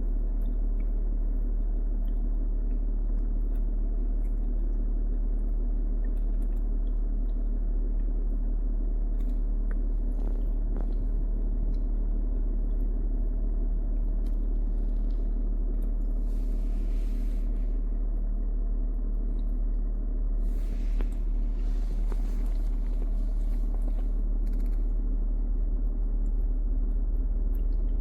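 A loud, steady low hum and rumble that holds level throughout, with faint scrapes over it.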